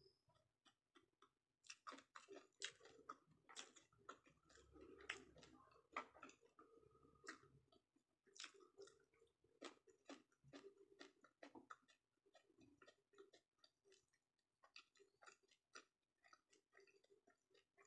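Faint chewing of sushi: soft wet mouth smacks and many small irregular clicks as the food is chewed with the mouth closed.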